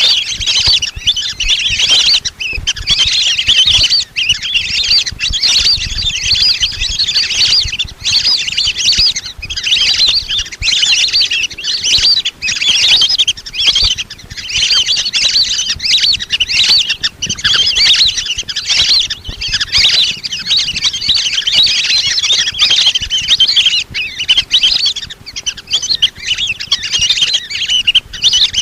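A flock of lesser whistling ducks calling without pause: a dense, overlapping chatter of high, thin whistles.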